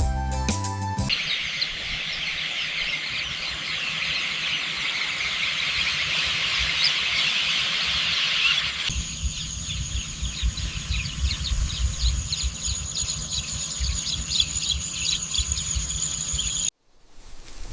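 Insect chorus: a dense, steady high-pitched buzz that about nine seconds in gives way to a thin, steady high whine with fast pulsing over a low rumble. The last notes of music fade in the first second, and the sound cuts off abruptly near the end.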